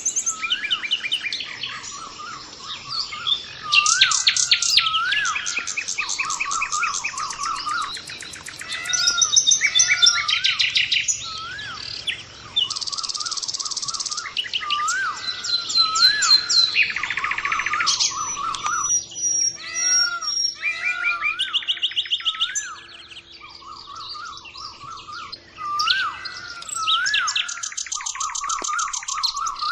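Several small birds chirping and singing together, a dense chorus of rapid trills and short repeated whistled notes.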